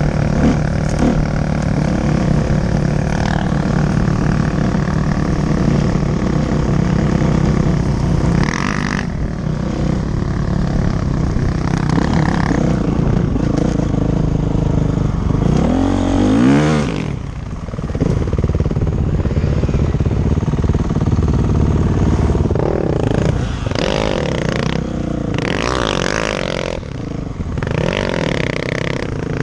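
Dirt bike engine running under way, revving up sharply about halfway through and then rising and falling in several shorter revs near the end.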